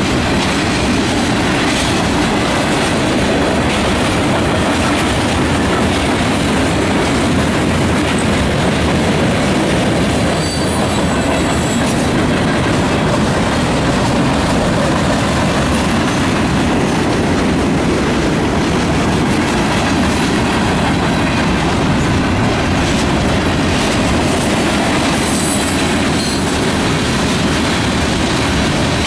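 Freight train cars rolling steadily past at close range, their steel wheels running on the rails. Brief high-pitched wheel squeals come about ten seconds in and again near the end.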